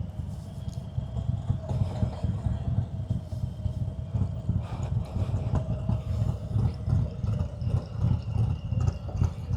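Harley-Davidson Milwaukee-Eight V-twin engine, air-cooled, running at low revs with a steady, pulsing beat and no revving, as the motorcycle creeps along in a traffic jam.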